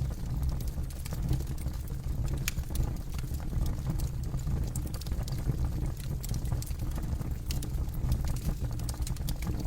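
Campfire burning with a steady low rumble and frequent sharp crackles and pops of burning wood.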